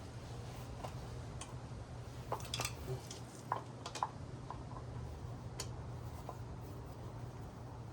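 Small metal washers and bolts being handled and fitted: scattered light clicks and taps over a steady low hum.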